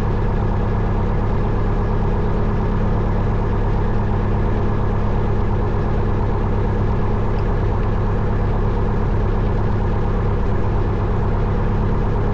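1972 Cessna 172 Skyhawk's four-cylinder Lycoming O-320 engine idling steadily, its propeller turning, at low power before the run-up.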